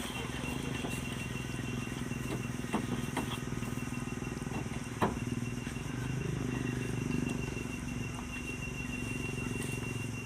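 A boat engine running steadily at a low, even rumble, with a few sharp knocks about three and five seconds in.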